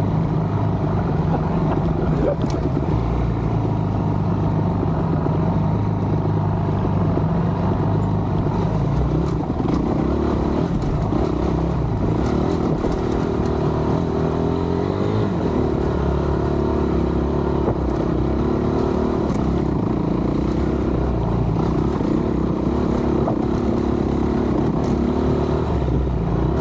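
Honda dirt bike engine running on the move, its pitch rising and falling with the throttle for most of the stretch, with scattered small knocks and clicks.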